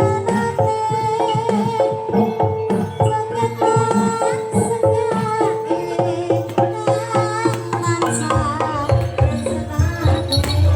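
Live jaranan gamelan accompaniment: tuned percussion playing fast repeated notes with held melodic tones over drum strikes.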